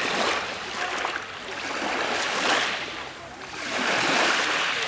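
Sea waves washing onto a pebble beach, the surf swelling and fading in about three surges.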